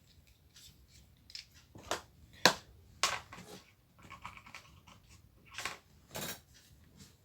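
Scattered sharp clicks and taps of small tools being handled on an electronics workbench, irregularly spaced, with the loudest click about two and a half seconds in.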